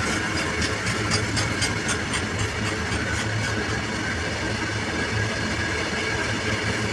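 Diesel locomotive running with a steady low drone, and a run of quick clicks in the first few seconds.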